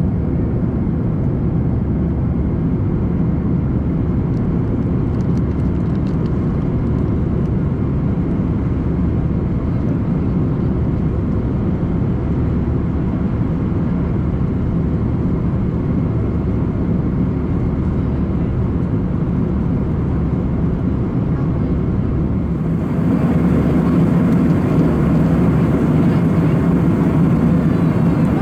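Steady cabin noise of an Airbus A340-300 airliner in flight: a constant low rush of engines and airflow. Near the end it turns louder and brighter.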